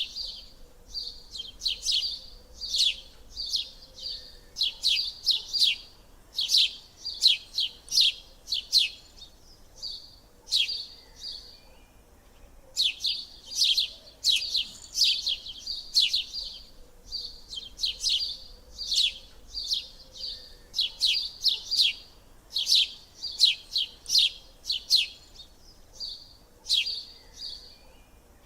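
Small songbirds chirping: rapid runs of short, high, sharp calls that come in clusters, broken by a couple of brief pauses.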